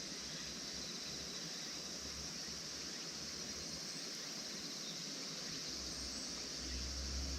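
Steady outdoor ambience: an even high-pitched hiss, with a low rumble that swells near the end.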